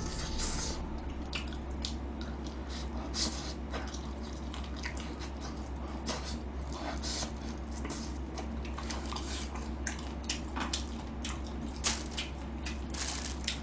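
Close-miked eating sounds: wet chewing and lip-smacking on sauced fried chicken, a string of short, irregular smacks and clicks over a steady low hum.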